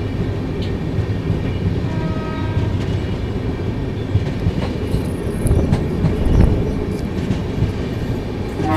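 Double-decker express train running along the track, heard from inside the air-conditioned chair-car coach: a steady low rumble with occasional faint wheel clicks.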